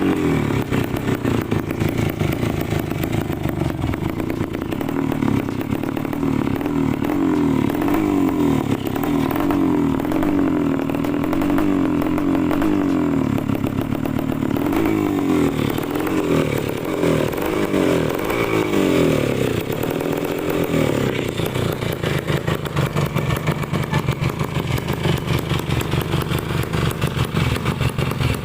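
Yamaha RX-King two-stroke single-cylinder engine running through a fitted Yamaha Vixion muffler, idling with a wavering note. About halfway through it is revved in a run of short blips, then settles back to idle.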